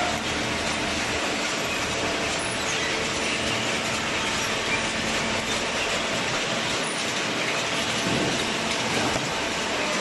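Automatic horizontal hydraulic baler for waste cartons running: a steady mechanical noise with faint steady hums.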